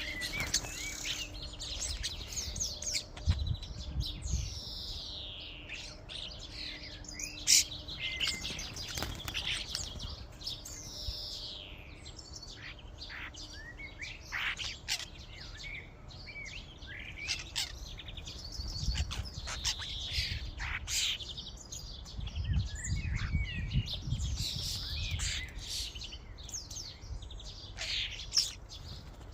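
A flock of common starlings chattering: a dense jumble of whistles, gliding notes, chirps and sharp clicks from many birds at once. Occasional low rumbles and thuds sound underneath, a few seconds in and again in the last third.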